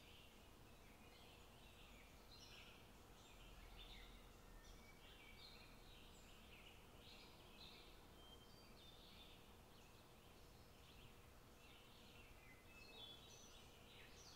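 Near silence: faint room tone with scattered faint bird chirps and a faint steady hum.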